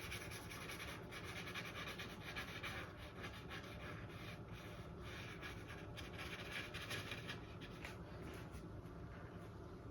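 Faint, repeated scratchy strokes of a paintbrush laying acrylic paint onto a stretched canvas, easing off near the end.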